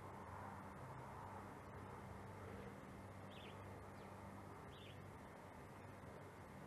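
Quiet garden ambience: a steady low hum and hiss, with a small bird giving brief faint chirps about three and a half seconds in and again near five seconds.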